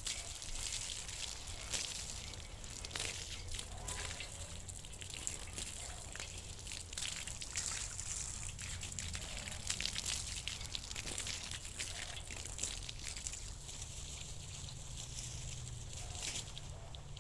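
Garden hose spraying water onto an antique metal bed frame, a steady hiss of spray with splashing and trickling off the metal as the soapy wet-sanding residue is rinsed away.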